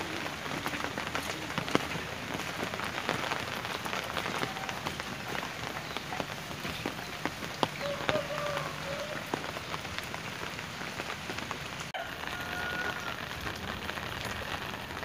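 Steady rain falling, with many sharp drops ticking on an umbrella held close overhead and patter on the wet ground around.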